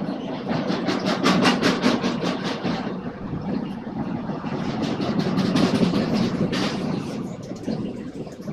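Renfe train running along the track, its wheels clattering over rail joints in two runs of quick, even clicks over a steady rumble, fading near the end.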